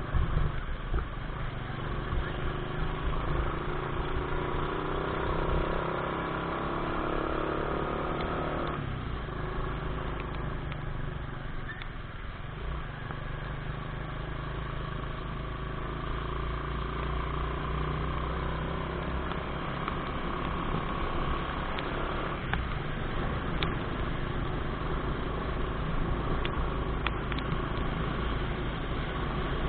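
Motorcycle engine running under way, with a steady low rumble of wind on the microphone. The engine note climbs steadily for several seconds, then drops off abruptly about nine seconds in.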